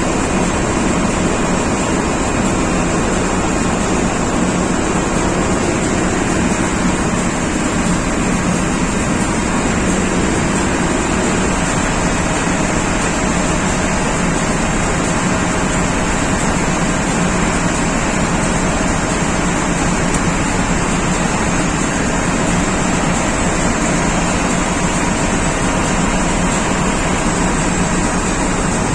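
Loud, unbroken machinery din of running engines, typical of a ship's engine room, with no change throughout.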